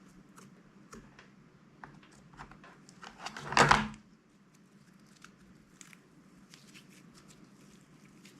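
Light clicks and crinkles of plastic being handled, with one loud tearing rip that swells and stops about three and a half seconds in, as of a plastic slime bag being torn or cut open.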